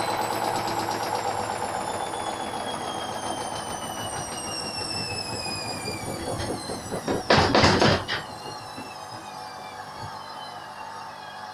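Hoover washing machine slowing down from a spin, its motor whine falling steadily in pitch. About seven seconds in, the unbalanced drum bangs loudly for about a second, then the machine carries on with a quieter hum.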